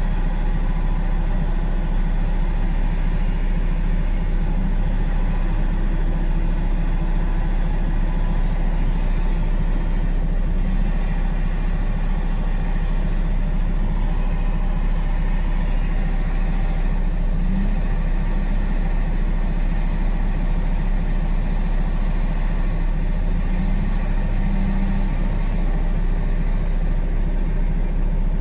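Truck engine idling steadily, heard from inside the cab as a constant low rumble.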